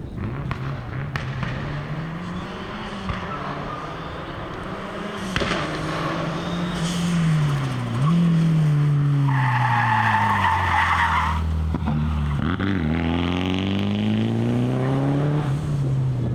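Toyota Celica rally car's engine at full effort, its pitch climbing and dropping repeatedly as it revs up through the gears and comes off the throttle. Near the middle the tyres squeal for about two seconds.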